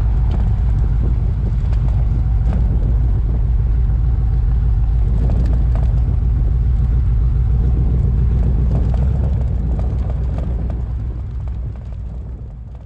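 A T-bucket hot rod's V8 engine running with a steady, deep rumble, which fades out over the last few seconds.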